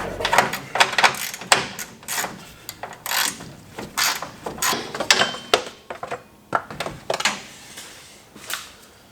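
Hand tools working on metal truck parts: a series of irregular sharp metallic clicks, clinks and scrapes, thickest in the first half and thinning out toward the end.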